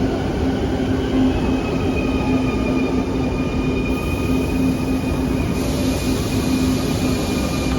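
Quito Metro train running, a steady rumble with a low hum and a high, steady whine that sets in about a second and a half in.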